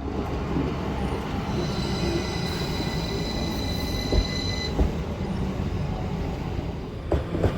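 Train running, with a steady high-pitched squeal that lasts about three seconds. Two sharp knocks come just before the squeal stops, and more knocks follow near the end.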